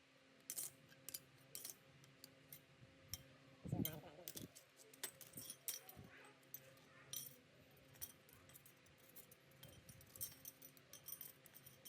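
Light metallic clicks and clinks of small metal parts being handled, scattered irregularly, with one duller knock about four seconds in.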